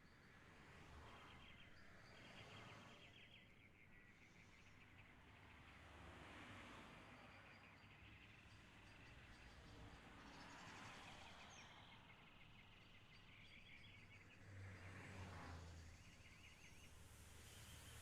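Near silence: faint outdoor ambience with short birdlike chirping trills repeated every second or two.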